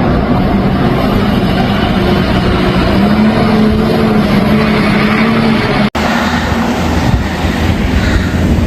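Loud, steady motor vehicle noise with an engine hum that steps up slightly about three seconds in. The sound drops out for an instant just before six seconds, then carries on.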